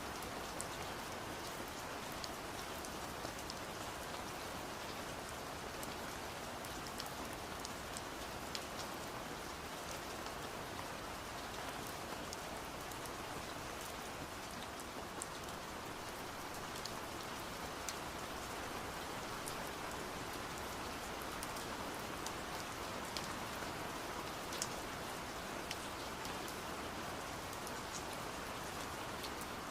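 Steady rain hiss with scattered sharp taps of raindrops on window glass.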